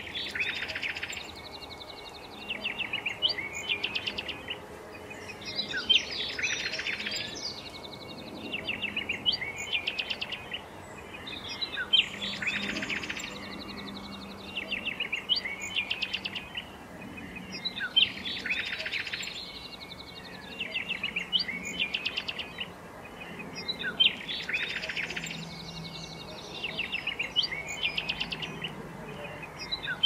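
Bird song: bursts of rapid, trilling chirps that come back every three seconds or so, over a faint steady background hiss.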